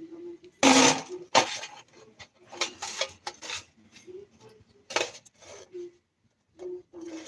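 Small metal parts and tools clinking and clattering against a hard surface or tray: a string of separate knocks and rattles, the loudest about a second in and another near the end.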